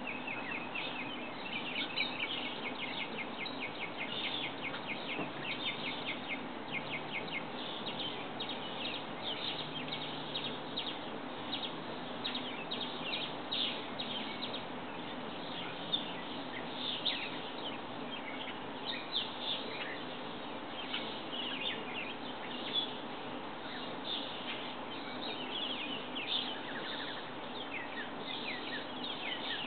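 Small birds chirping, many short high chirps in quick succession, over a steady low hum.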